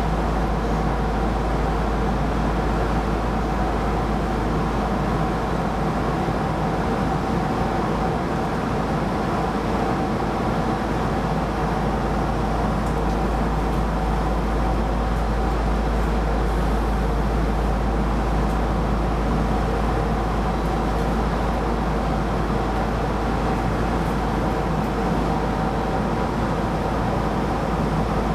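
Keisei Line rapid train running at a steady speed, heard from inside the front car: an even running rumble with a steady hum and a couple of held tones over it.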